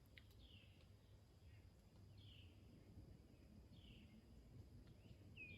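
A bird faintly repeating a short falling call about every second and a half, over near silence.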